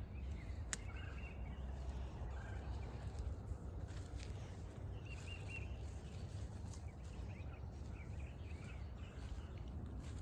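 Small birds chirping in short, scattered calls over a low steady rumble, with one sharp click near the start.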